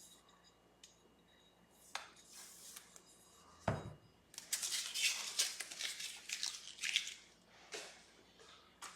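Sandpaper on a fret-levelling bar stroked rapidly back and forth over the frets of an electric guitar neck, a scratchy rasping for about three seconds. A single thump comes just before the strokes begin.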